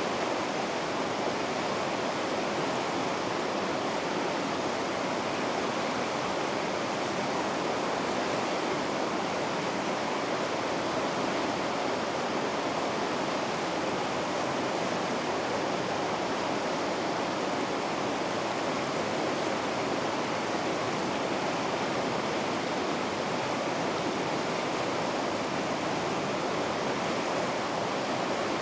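Rushing water of the Vikaköngäs river rapids, a steady even roar of white water that does not change.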